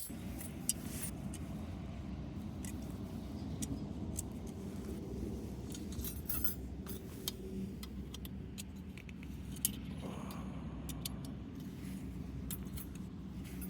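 Small metal pieces clinking and rattling in a run of short sharp clicks, over a steady low rumble.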